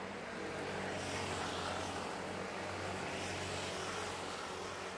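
A train hauled by the DT668 steam locomotive and the R152 diesel-electric locomotive coming past: a steady engine drone with several pitched tones over a haze of running noise, growing a little louder over the first second and a half.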